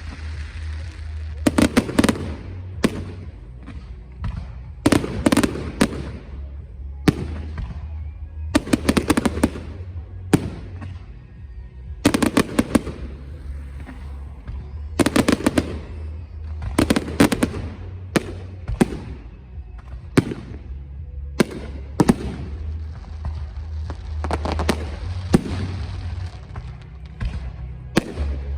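Fireworks display: clusters of sharp bangs and crackles every couple of seconds, over a steady low hum.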